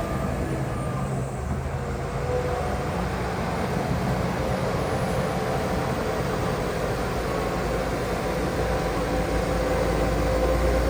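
Diesel engines of heavy earthmoving machinery running steadily with a low rumble, growing a little louder near the end.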